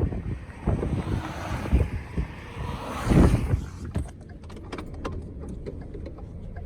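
Gusty wind buffeting the microphone, a rumbling rush that swells to its loudest about three seconds in, then drops away to a quieter stretch with scattered light clicks.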